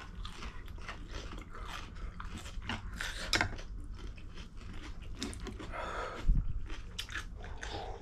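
Close-up eating sounds: chewing, biting and slurping of spicy ramen noodles, with many small wet clicks and crunches, and a louder knock about six and a half seconds in.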